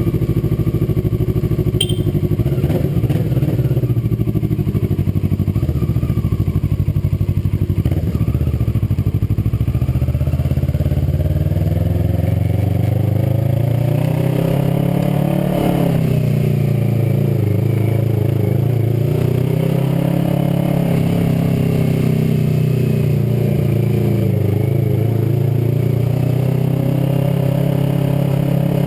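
Kawasaki ER-6n parallel-twin engine with an aftermarket WR exhaust, idling and then pulling away. Its pitch rises to a peak about halfway through, drops, and then rises and falls again more gently with the gear changes.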